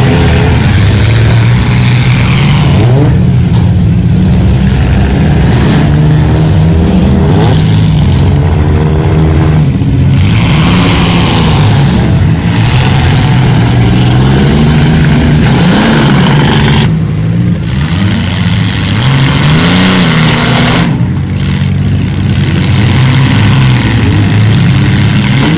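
Engines of several small demolition derby cars revving hard and dropping back again and again, loud and close.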